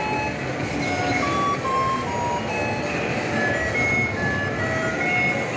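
An odong-odong kiddie ride's electronic jingle: a simple tune of single beeping notes stepping up and down, over a steady noisy rumble.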